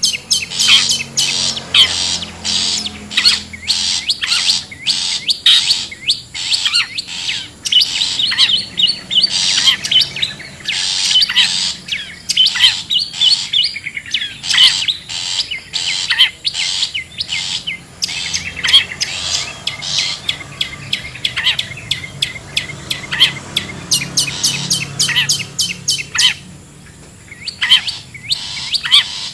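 Long-tailed shrikes (cendet) calling: a dense stream of rapid, sharp chirps and chattering notes, with a short lull near the end.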